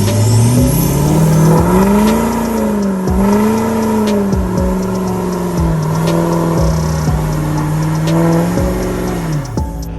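Truck engine revved up and held at high revs, its pitch wavering with a few brief dips, then dropping off just before the end.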